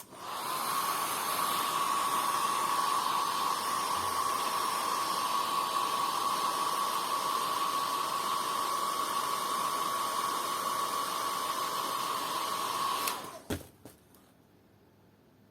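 Hair dryer running steadily with a high whine, switched off about 13 seconds in.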